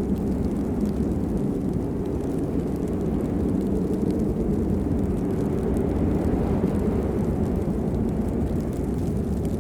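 Steady rain, heard as a dense, even, low-pitched hiss with a few faint drop ticks.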